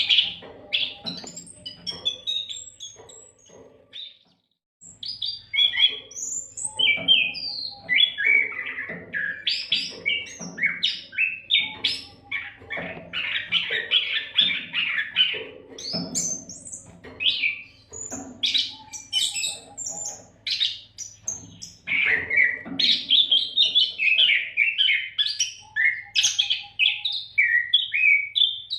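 Oriental magpie-robin (kacer) singing vigorously: a fast, unbroken stream of varied whistles, trills and chips. The song stops for about half a second around four seconds in, then resumes.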